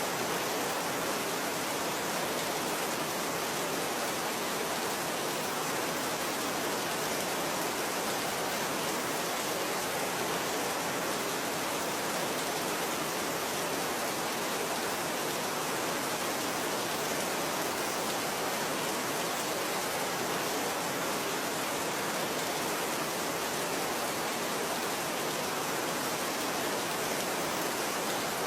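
Steady rain falling: an even, unbroken hiss with no single drops or changes standing out.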